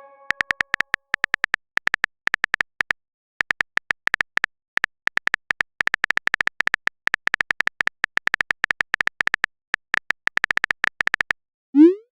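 Typing sound effect: a rapid series of short keyboard clicks in bursts with brief pauses, then a short rising whoosh near the end, as of a chat message being sent.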